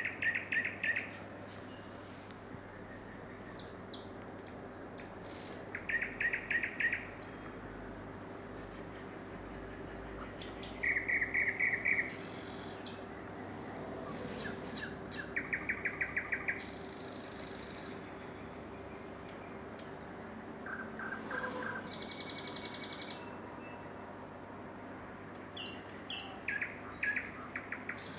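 Songbirds singing in the evening: short rapid trilled phrases recur every few seconds, mixed with thin high chirps from other birds and a brief buzzy high note a little over two-thirds of the way through.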